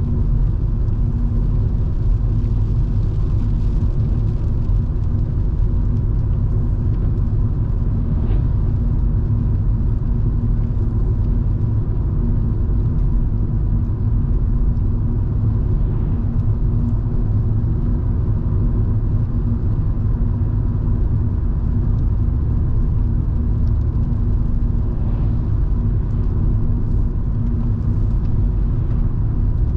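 Volvo V70 2.5T with its turbocharged five-cylinder engine, driving at a steady pace: a continuous low rumble of engine and road noise with a steady hum in it.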